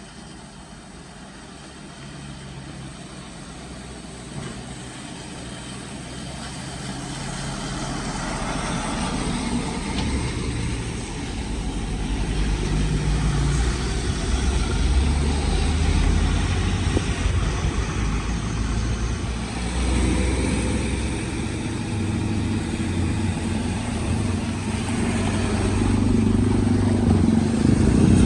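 A large vehicle's engine running under load at a low, shifting pitch, growing steadily louder as it approaches.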